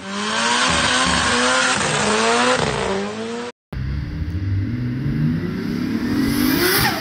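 Car engine revving hard in a burnout, its pitch rising and falling over the hiss of spinning tyres. After a brief cut at about three and a half seconds, an engine revs again, climbing steadily in pitch.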